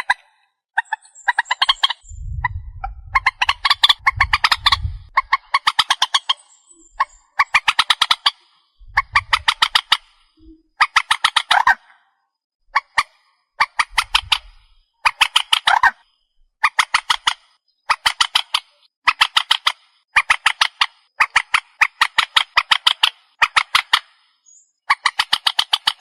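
Trích ré bird calling: repeated bouts of rapid, harsh pulsed notes, each about a second long, one after another with short gaps. This is a recording used as a lure call for trapping these birds.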